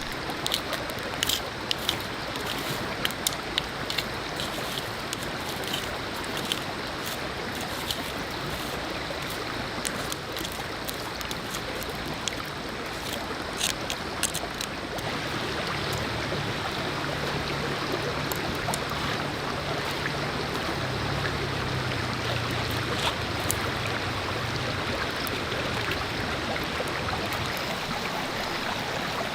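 Steady rush of running water, like a stream, with scattered sharp clicks through the first half and a low steady hum that comes in about halfway through.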